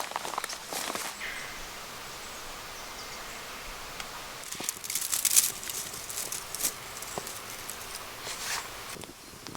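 Rustling with scattered light clicks and crackles over a faint steady hiss, busiest about five seconds in.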